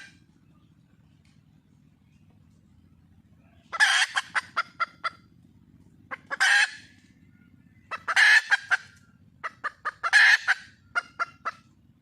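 Wild junglefowl hen calling: loud bursts, each a longer note running into a quick string of short clipped notes, repeated four times with pauses of a second or two between, the call a hen gives when seeking a mate.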